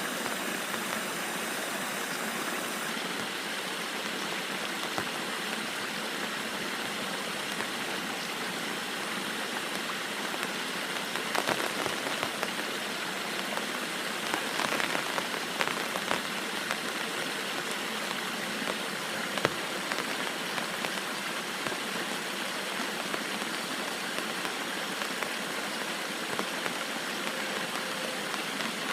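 Steady rain falling, with a few sharper taps of drops now and then.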